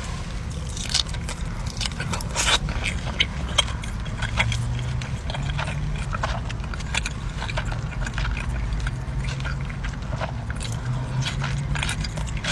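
Close-miked eating: bites and chewing of fast food, with many short crunchy clicks, over a steady low hum.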